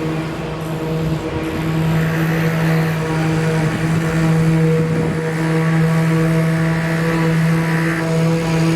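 A steady, loud mechanical drone at one unchanging pitch with overtones, like an engine or motor running at constant speed, over a bed of noise.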